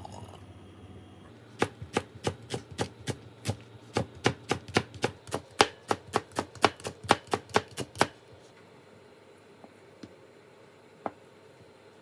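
Kitchen knife chopping food on a cutting board: a steady run of sharp knocks, about four a second, starting a second or two in and stopping a few seconds before the end, then one or two single taps.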